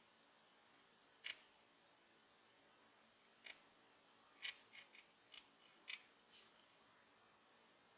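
Short, sharp clicks and snips from small hand tools and parts being handled on a modelling bench, about eight of them, most bunched together in the second half, against near silence.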